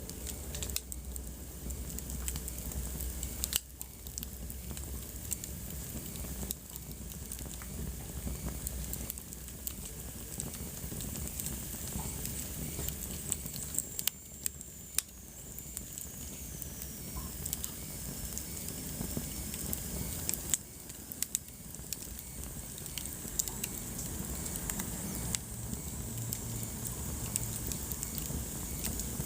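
Wood fire crackling in a fireplace: irregular sharp pops and snaps over a low steady rumble, with a faint high whistle that falls in pitch around the middle.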